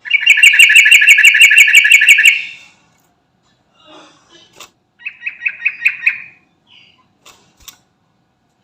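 Sooty-headed bulbul (trucukan) calling: a loud, rapid run of about a dozen evenly repeated notes lasting some two seconds, then scattered softer calls and sharp chips, and a second shorter run of about seven notes around halfway through.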